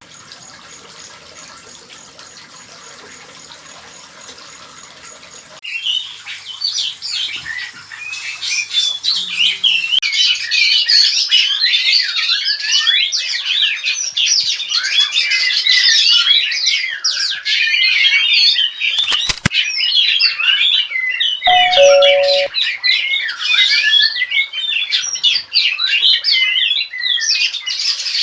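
Oriental magpie-robins (kacer) chirping and calling together in a dense, overlapping chatter that starts suddenly about six seconds in, after a few seconds of faint background hiss. A short two-note low beep sounds about three-quarters of the way through.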